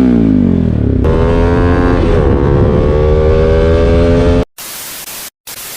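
Bajaj Pulsar NS200's single-cylinder engine through an R9 racing exhaust: a rev falling away, then the pitch rising steadily under acceleration, dipping once about two seconds in as in a gear change. Near the end the engine sound cuts off suddenly to a steady hiss with a brief dropout.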